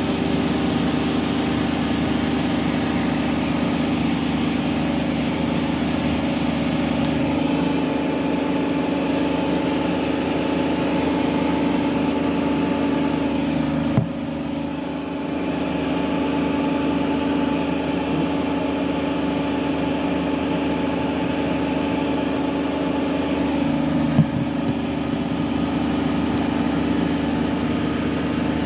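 Hotpoint Active Care washing machine on its spin cycle, the drum turning at a steady speed with a constant motor hum. Two brief knocks sound, one about halfway through and one near the end.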